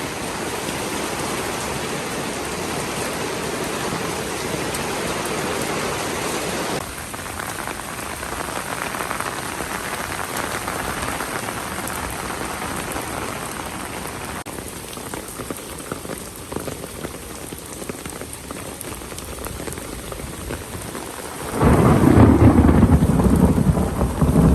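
Heavy rain falling steadily. Near the end comes a loud, deep rumble of thunder.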